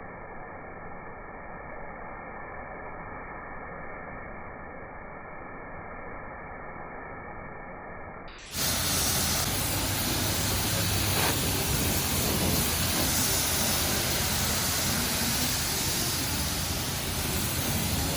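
A self-serve car wash's high-pressure wand spraying water, heard as a steady hiss. It is muffled and thin at first, then about halfway it jumps suddenly to a louder, full, bright hiss.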